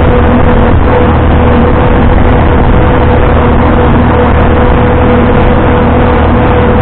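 Vintage farm tractor engine running steadily under load, loud and unbroken, with a constant low hum and a steady higher whine.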